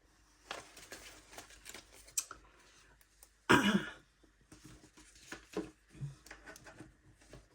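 Paper and packaging being handled: soft rustles and light taps, with one short, louder sound about halfway through.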